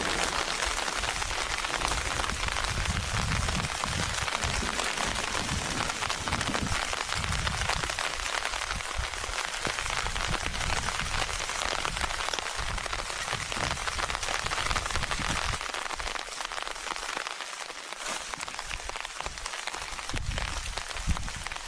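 Steady heavy rain hissing, with gusts of wind buffeting the microphone in low rumbles that ease off for a few seconds near the end.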